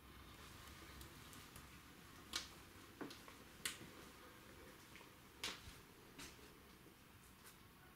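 Wood fire in a fireplace firebox, with scattered sharp pops and cracks from the burning logs, about five in all, at irregular intervals over a faint background.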